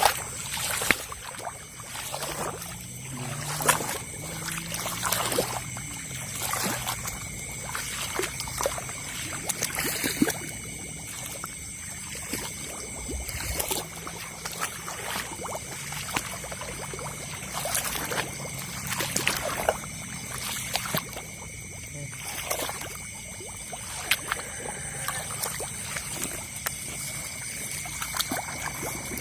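Water in a flooded rice paddy sloshing and splashing irregularly as someone wades through it, over a steady high-pitched chorus of night creatures.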